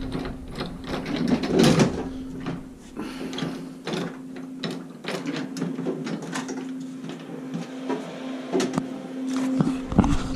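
Steady low hum from the powered-up USI CB300 soda machine, with scattered clicks and knocks of handling around it.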